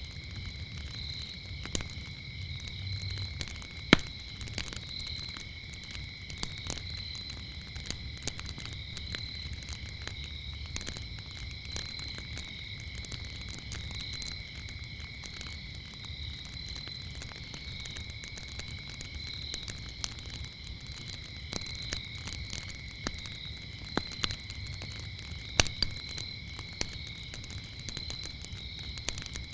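A wood fire crackling with scattered sharp pops over a low rumble, one pop much louder about four seconds in. Crickets chirp steadily behind it, two high tones, one of them pulsing about once a second.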